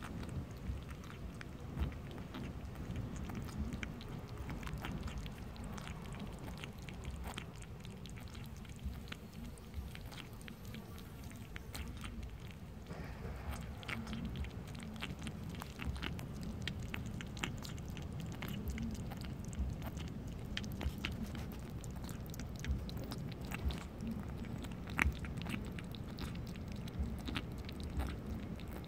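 A cat eating, with many small irregular chewing clicks and smacks over a steady low rumble.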